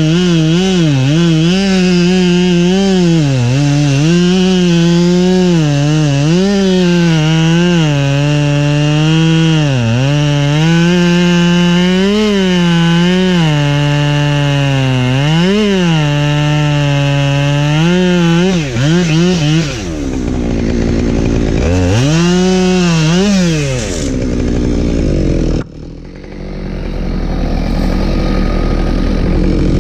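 Husqvarna 572XP two-stroke chainsaw cutting firewood, its engine pitch repeatedly dipping under load and recovering as the chain works through the wood. After about 20 seconds the saw revs briefly twice, then cuts away suddenly, leaving a low rumble.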